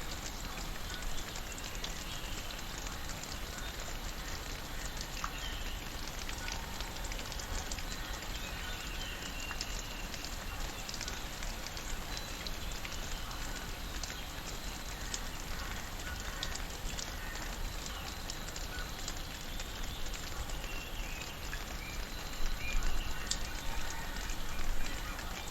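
Tropical rainforest ambience: steady rain hiss with a dense scatter of small drip clicks, and faint bird calls. A few louder noisy bursts come near the end.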